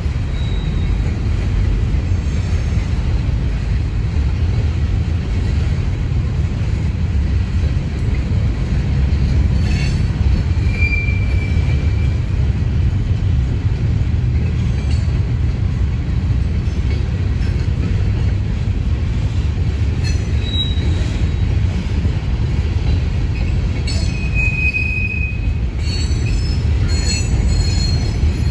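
Loaded rock train's freight cars rolling past, a steady low rumble of steel wheels on rail. A few brief high wheel squeals come through along the way, and clicking of wheels over rail joints near the end.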